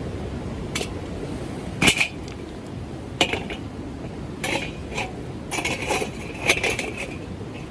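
Metal camp gear being handled: a series of light metallic clinks and knocks, each with a brief ring, about half a dozen spread over several seconds and coming closer together near the end, over a steady rushing background.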